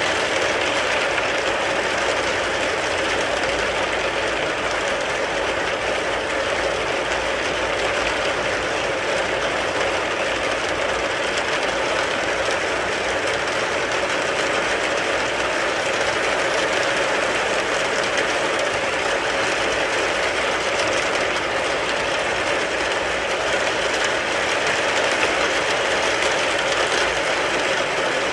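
Rain falling steadily on a car, a dense, even patter with no let-up.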